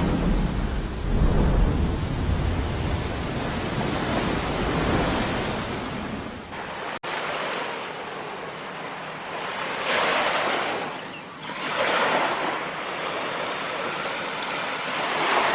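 Ocean surf: waves breaking and washing up a shore, with wind rumbling on the microphone in the first half. A sudden break about seven seconds in, then two waves surge in a few seconds later.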